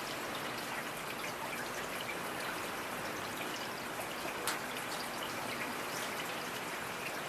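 Steady rain with individual drops pattering and dripping close by, and one sharper drop about four and a half seconds in.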